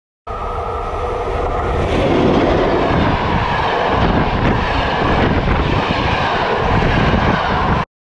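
Train running past: a steady rumble of wheels on rail that grows louder after about two seconds, with a faint steady whine at the start. The sound starts and cuts off abruptly.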